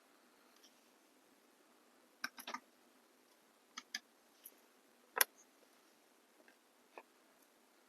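Scattered small clicks and taps from handling nail-art bottles and tools: a quick run of four about two seconds in, a pair near four seconds, and the sharpest single click about five seconds in.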